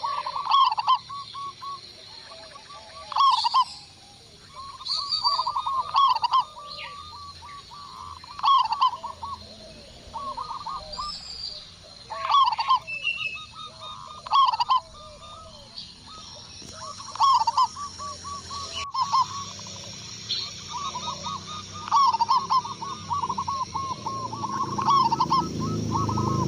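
Zebra doves (perkutut) cooing: rolling phrases of quick notes, one about every two seconds, with fainter high chirps from other small birds in between.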